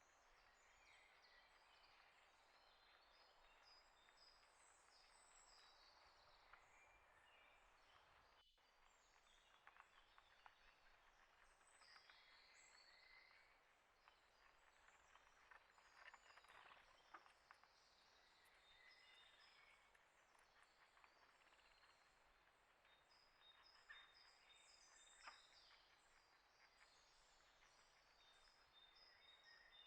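Faint chirping of small birds, many short high calls overlapping, with a few scattered soft clicks.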